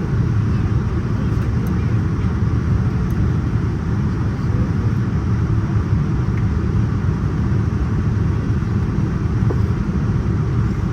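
Steady cabin noise inside a Boeing 787-9 in flight: an even, low rumble of engines and airflow, with no distinct events.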